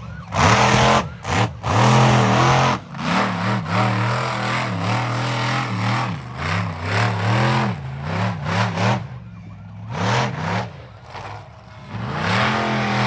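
Monster truck engine revving hard again and again during a freestyle run, its pitch rising and falling with loud surges and easing off briefly near the end.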